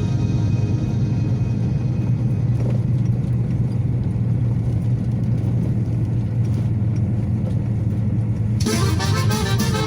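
Steady low rumble of a Kenworth T680 semi truck on the road, heard from inside the cab. Music starts again near the end.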